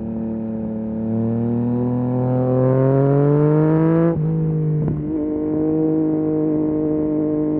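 2023 Yamaha MT-09 SP's three-cylinder engine through a full Akrapovic race exhaust, its pitch rising steadily under acceleration for about four seconds, then dropping suddenly at a gear change and running on at a steady pitch.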